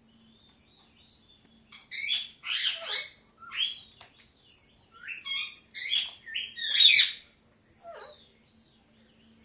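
Pet parrot calling: a faint wavering whistle, then a run of loud, harsh squawking calls with sliding pitch, the loudest near the end, and one last short call.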